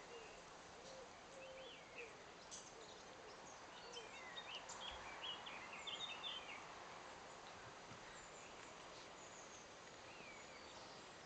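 Faint outdoor background hiss with scattered high, quick bird chirps, coming in a busier run around the middle.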